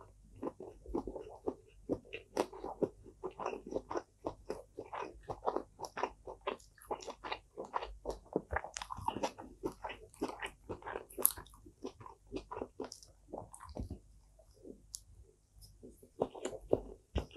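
Close-up chewing of food: a person eating, with many small crunches and clicks in quick succession. It eases off briefly about three-quarters through, then resumes near the end.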